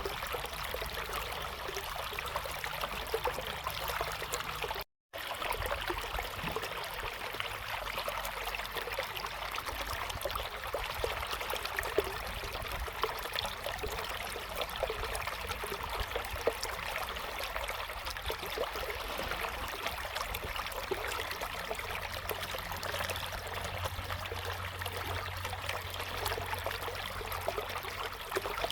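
River flowing steadily, an even rush of water, broken by a split-second gap of silence about five seconds in.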